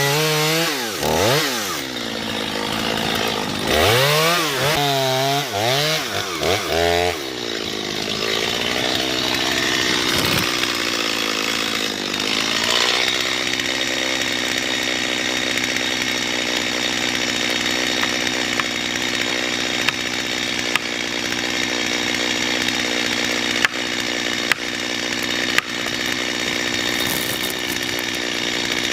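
Chainsaw revved up and down several times, then held at full throttle and running steadily through the rest, as when cutting into a tree trunk to fell it.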